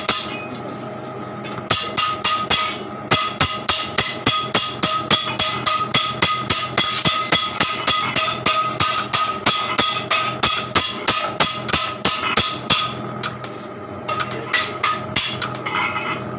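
Hammer beating on metal in quick, even blows, about three to four a second, with a ringing note behind them and two short pauses, one near the start and one near the end; typical of hand-shaping sheet metal for a custom exhaust.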